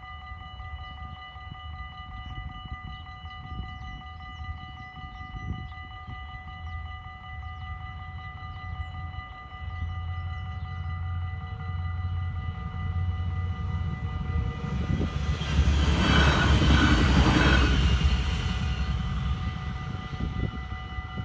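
Level-crossing warning bells ringing steadily while a LINT 41 diesel multiple unit passes. Its engine hum builds from about ten seconds in, and its engine and wheel noise is loudest a few seconds later, then dies away.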